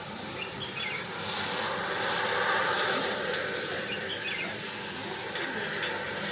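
Aircraft engine noise that swells to its loudest about two and a half seconds in, then eases off.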